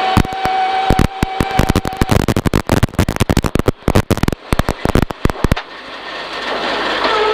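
Peugeot 306 rally car at speed, with a rapid, irregular run of sharp cracks and pops for about five and a half seconds. The engine note holds steady at first and then drops back. Near the end the engine note climbs again as the car accelerates.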